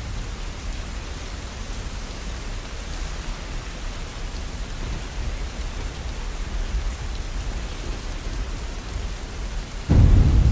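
Steady rainfall with a constant low rumble beneath it. Near the end, a sudden loud roll of thunder breaks in.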